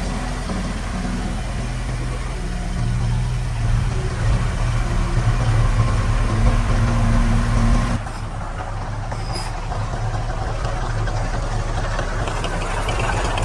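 Heavy diesel engine of earthmoving equipment running, swelling louder a few seconds in as if working under load. A little past halfway the sound changes abruptly to a quieter, rougher engine sound.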